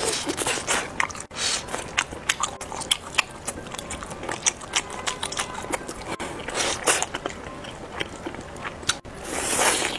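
Close-miked biting and chewing of grilled gluten skewers (kao mianjin): wet mouth sounds with many small clicks and smacks, and a longer rush of noise near the end.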